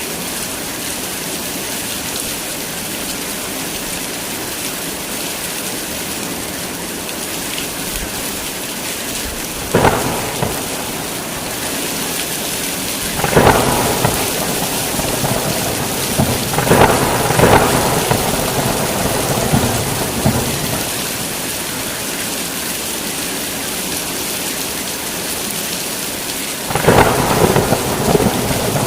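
Heavy rain falling steadily, with thunder breaking in about ten seconds in, twice more over the next eight seconds, and again near the end.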